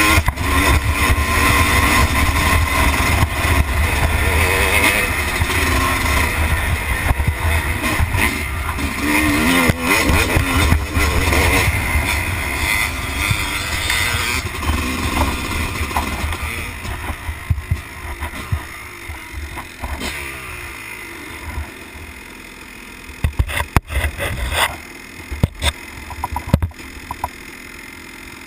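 Dirt bike engine running and revving under throttle, its pitch rising and falling. About two-thirds of the way in the engine sound dies down and gives way to scattered knocks and clatter.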